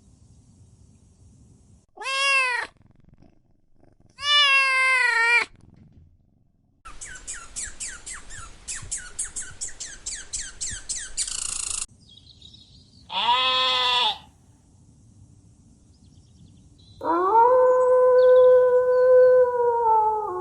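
A cat meowing: three short, separate meows that rise and fall in pitch, with a stretch of rapid repeated chirping calls between the second and third. Near the end comes a long, level, drawn-out animal call.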